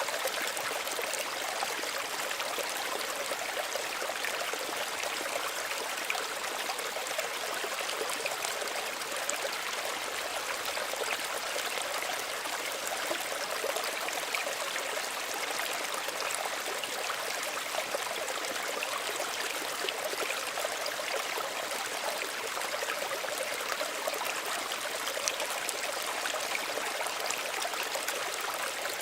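A small stream running and trickling steadily over stones, a continuous gentle babble of water.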